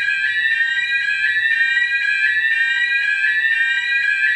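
Electronic alarm siren sounding continuously, a loud, repeated rising sweep of tones.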